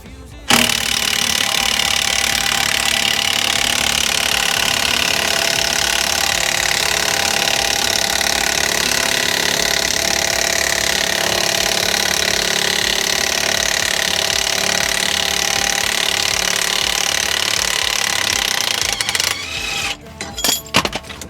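A power tool runs steadily and loudly for about eighteen seconds, then stops abruptly a couple of seconds before the end.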